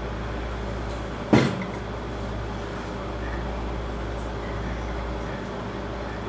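Steady low hum of room background noise, with a single sharp knock about a second and a half in.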